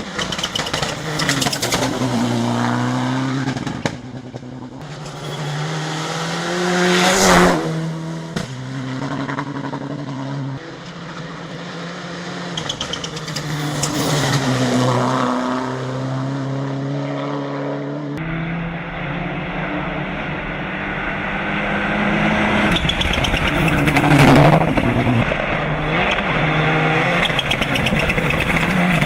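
Turbocharged four-cylinder engine of a Mitsubishi Lancer Evolution VI hill-climb car revving hard up and down through gear changes, passing close by about a third of the way in and again near the end, with the pitch dropping as it goes past.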